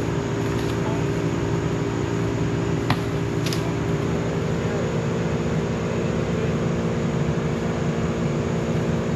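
Heavy tree-removal machinery running, a steady engine drone at constant speed, with a couple of sharp clicks about three seconds in.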